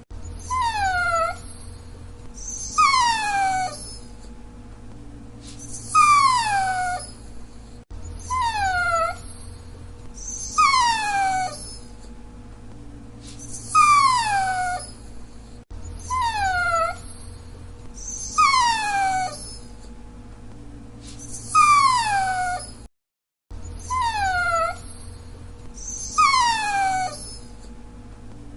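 Dachshund whining: high-pitched whines that fall in pitch, each under a second long, coming every one to three seconds.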